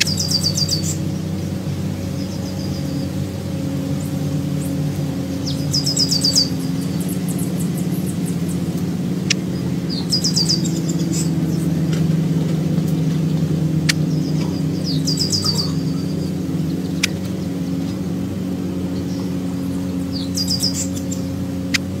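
A songbird calling in short, quick chirping phrases, repeated about every four to five seconds, over a steady low hum.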